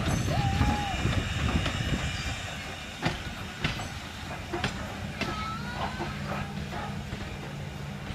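Train cars rolling on the track: a low rumble with the clack and knock of wheels over rail joints and a few faint squeals, gradually getting quieter.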